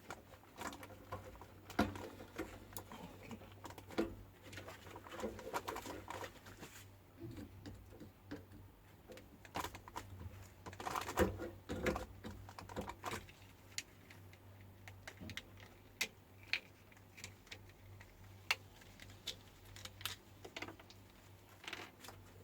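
Irregular clicks, taps and light knocks of small metal parts and hand tools being handled during microwave repair work, some in quick clusters, over a steady low hum.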